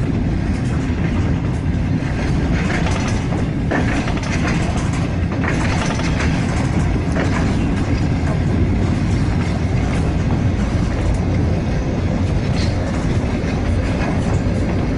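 Passenger train running along the track, heard from inside the carriage: a steady low rumble with irregular clacks from the wheels and rails.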